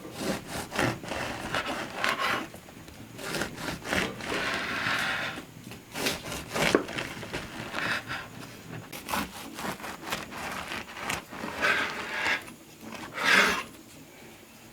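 Irregular rubbing and scraping strokes from hand work in food preparation, some short and some about a second long, the last ones the loudest.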